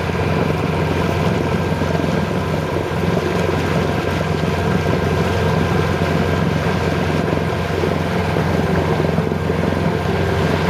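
Boat engine running at a steady speed, a constant drone with no change in pitch.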